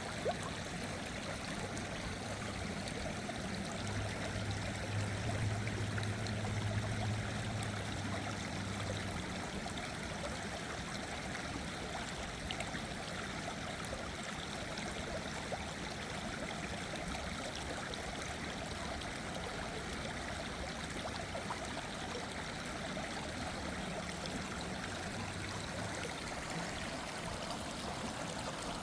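Small waterfall on a stream: water splashing and rushing steadily.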